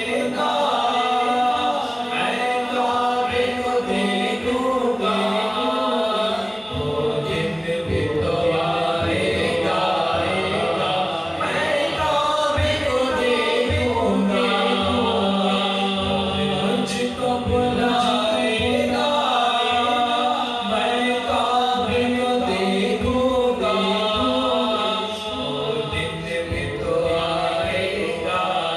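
Male voice reciting an Urdu naat without instruments, sung with a heavy echo effect over a steady low hummed vocal drone.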